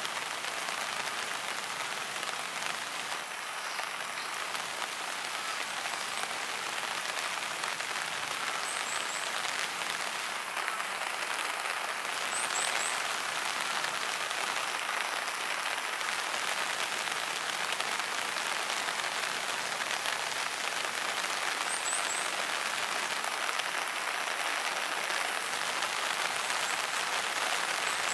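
Steady rain falling: an even, unbroken hiss that holds at one level throughout. A few faint, very high chirps come in short runs of two or three.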